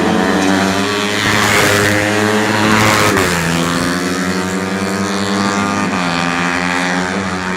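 Four-stroke 125 cc underbone racing motorcycle engines running hard at high revs, the pitch climbing and then dropping sharply about three seconds in and again about six seconds in, as on upshifts.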